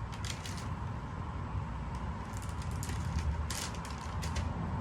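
Clusters of short clicks and scrapes from cooking utensils working at a flat-top griddle, over a steady low rumble.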